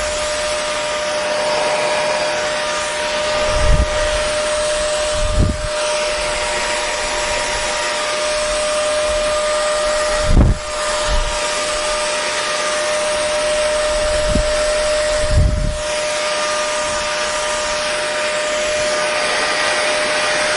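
Electric hair dryer running steadily: rushing air with a steady motor whine. Several short low thumps break in, one near the middle the loudest.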